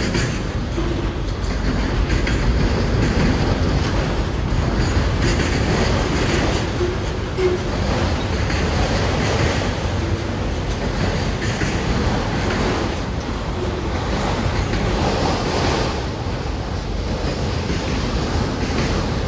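Empty autorack freight cars rolling past close by: steel wheels clattering and the car bodies rattling over rough track, with a steady heavy rumble.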